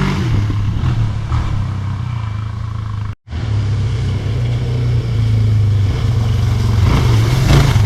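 ATV engine running, a low steady drone that picks up with throttle near the end. The sound cuts out completely for a split second about three seconds in.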